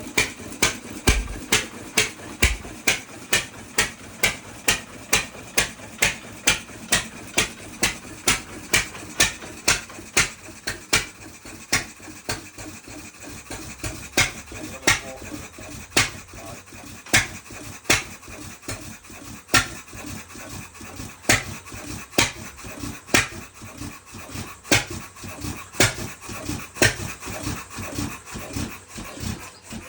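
Ruston 6PS stationary engine running slowly, each firing stroke a sharp exhaust beat about twice a second. After about twelve seconds the beats come more unevenly, with some louder than others.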